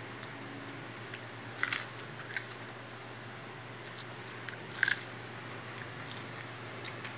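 A small child chewing corn kernels: a few short crunches and mouth clicks, the clearest about a second and a half in and just before five seconds, over a steady low hum.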